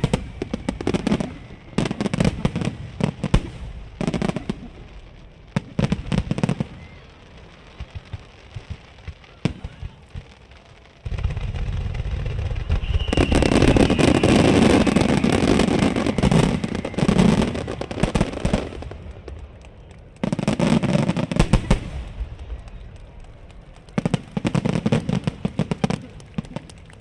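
Fireworks bursting overhead in repeated volleys of sharp bangs and crackle, with a long, loud, dense stretch of crackling over a low rumble in the middle and further volleys near the end.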